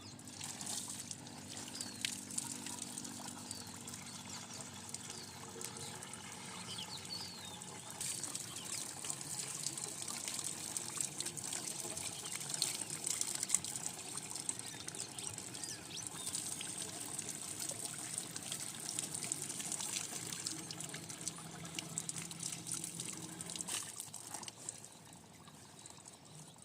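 Water pouring and splashing steadily, louder in the middle and falling away in the last two seconds.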